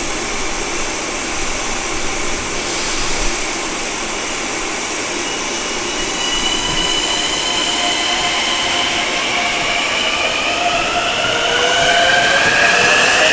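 Long Island Rail Road train running. From about six seconds in, a whine of several tones rises steadily and grows louder as the train picks up speed.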